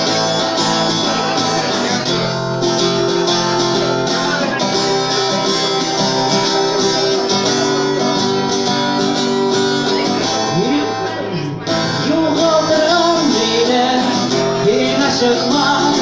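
Strummed acoustic guitar accompanying a song, with a voice singing over it in the second half.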